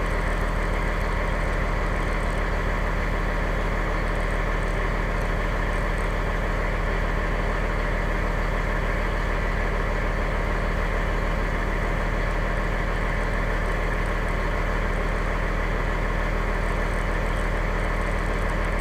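Fire engine's diesel engine running at a steady pitch, heard from the cab.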